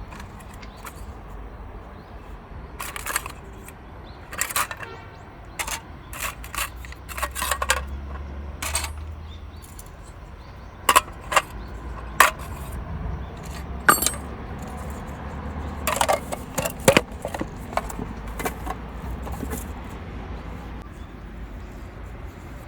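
Irregular clicks, knocks and light metallic clinks from gear being handled, a few ringing briefly, over a low steady rumble.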